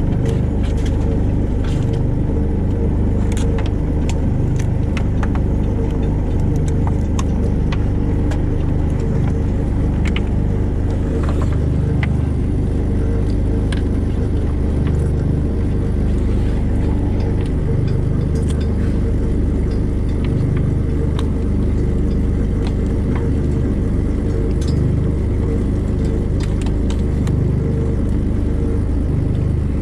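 A fishing boat's engine running steadily with a low rumble, with scattered light clicks and clinks of gear on top.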